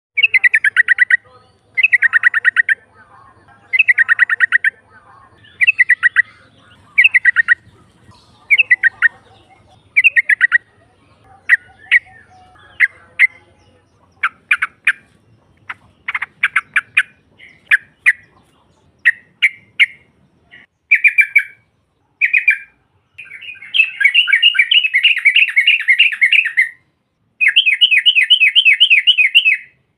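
Yellow-vented bulbul calling: bursts of rapid chattering notes about every two seconds, then scattered sharp single notes, and two long runs of chatter in the last several seconds.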